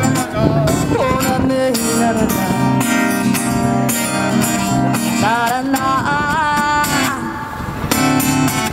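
Street musicians' acoustic guitar strumming with a voice singing over it.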